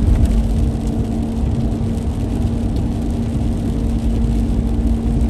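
Steady drone of a car driving at highway speed in rain, heard from inside the cabin: low tyre and road rumble with a constant engine or drivetrain hum, and a light hiss of water on top.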